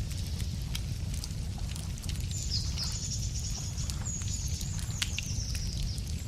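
Wood fire crackling with sparse sharp pops, and a songbird trilling high and fast from about two seconds in until near the end, over a steady low rumble.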